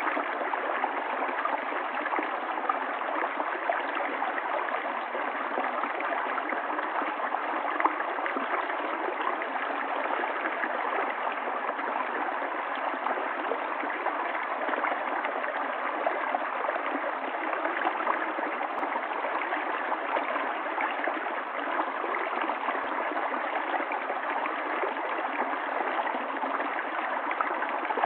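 Water flowing steadily in a stream, an even, unbroken rush of running water with no change.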